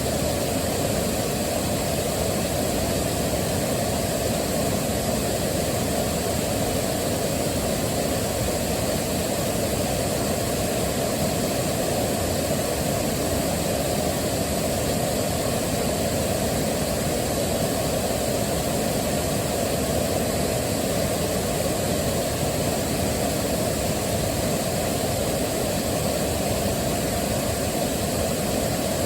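Waterfall rushing, a steady unbroken wash of water noise weighted toward the low end.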